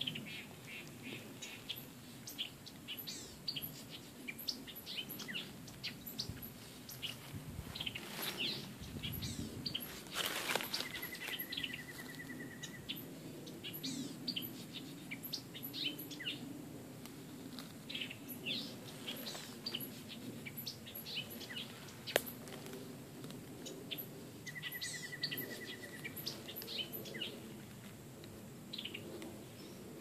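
Several wild birds chirping and calling, with many short, quick notes throughout. Twice a short, even trill on one pitch stands out, each about a second and a half long.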